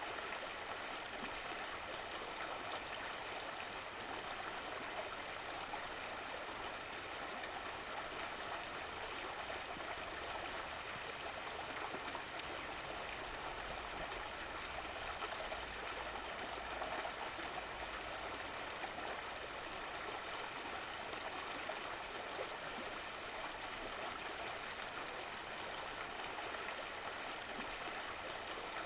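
Running water of a stream, a steady rushing and gurgling flow.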